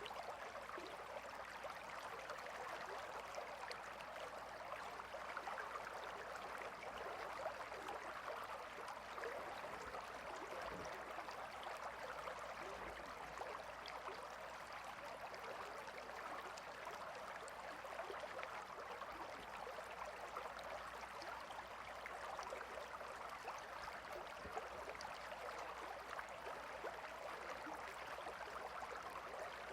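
Gentle river flowing: a soft, steady rush of water with a fine crackle, unchanging throughout.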